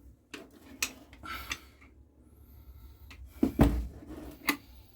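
Light clicks and knocks of chainsaw parts and tools being handled while the fuel lines are refitted to the carburettor, with one louder knock about three and a half seconds in.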